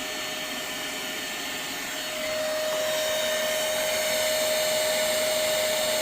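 Hoover CleanSlate spot cleaner's motor running, a steady suction rush with a steady whine through it; it gets louder about two seconds in.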